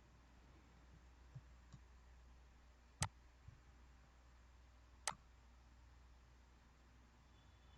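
Near silence with a faint hum, broken by two sharp clicks about two seconds apart.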